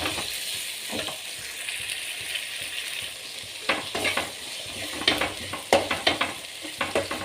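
Chopped tomatoes and onions frying in oil in a kadai, sizzling steadily, with a few short scraping stirring strokes in the second half as the tomatoes are sautéed down until soft.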